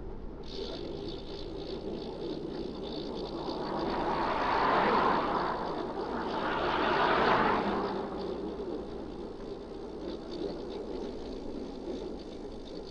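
Road traffic passing: two vehicles go by one after the other about midway, each swelling and fading.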